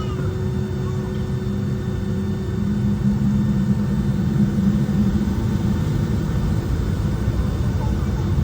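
Cabin noise inside a Boeing 757-200: a steady low rumble of the engines and airframe, growing a little louder about three seconds in.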